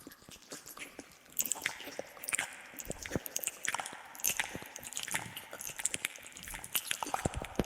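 ASMR mouth sounds: irregular wet clicks, smacks and pops from lips and tongue close to the microphone, with an echo effect, getting denser after about a second and a half.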